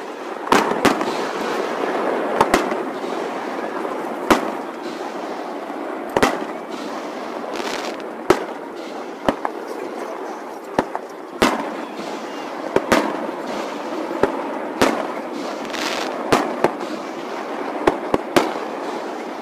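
Fireworks going off, an irregular run of sharp bangs about one a second over steady background noise, the recording sped up.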